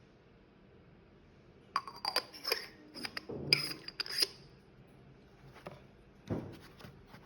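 Manual coffee grinder being handled: a quick run of sharp metal and glass clinks and knocks starting about two seconds in, then a single duller knock near the end.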